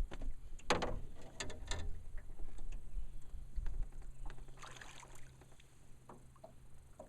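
Scattered knocks, clicks and rustles of handling aboard a small fishing boat, with a faint steady low hum through the middle.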